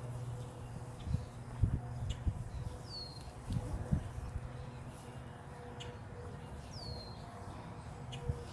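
Two short, high, falling bird chirps about four seconds apart over a steady low hum, with a few dull bumps in the first four seconds.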